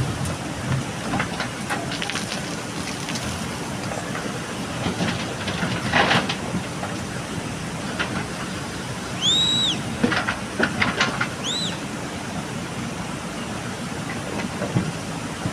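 JCB backhoe loader's diesel engine running under load, with gravel clattering and metal knocking as the bucket scoops and dumps. Two short high-pitched squeaks come a little past the middle.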